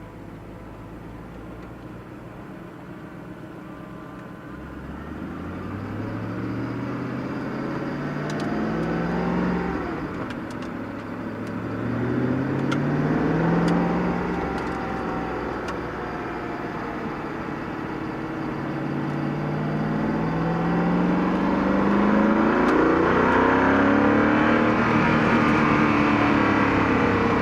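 Koenigsegg CC8S's supercharged V8 running low at first, then pulling away with its pitch rising three times and falling back between the rises, growing louder toward the end.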